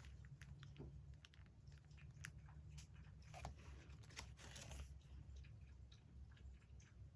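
Paper being handled at a desk: crinkling and rustling, with scattered light ticks and a denser crackle around the middle.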